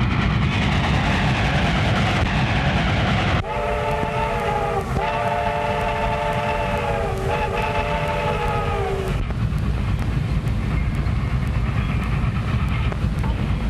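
Steam train running with a steady rumble. About a third of the way in, its chime whistle sounds a chord in three blasts, each dipping in pitch as it breaks off.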